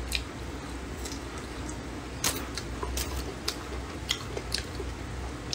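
Close-miked eating sounds: chewing a stir-fried green chili pepper and a mouthful of fried rice noodles. Sharp mouth clicks come at irregular intervals over a low steady hum.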